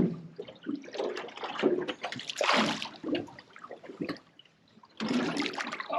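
Water splashing and sloshing in irregular bursts beside a small boat as a hooked tope shark is turned alongside to be tailed, with a brief drop to near silence about four and a half seconds in.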